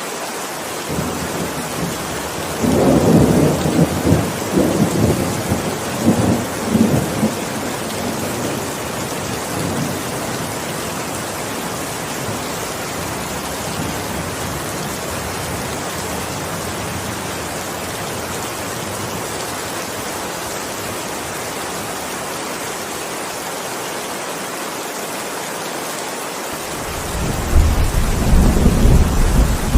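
Heavy rain falling steadily, with two rolls of thunder: a rumbling, crackling peal a couple of seconds in that fades by about eight seconds, and a deeper low rumble building near the end.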